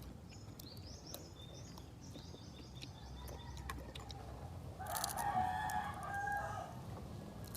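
A rooster crowing once, about five seconds in, a call of nearly two seconds. Before it there is faint high-pitched chirping.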